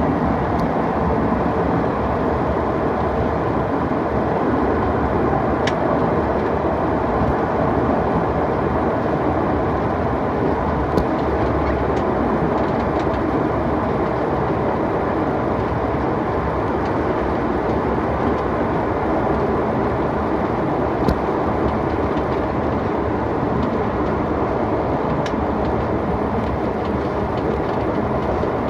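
Steady airliner cabin noise, the even rush of the engines and airflow heard from a passenger seat, with a couple of faint clicks.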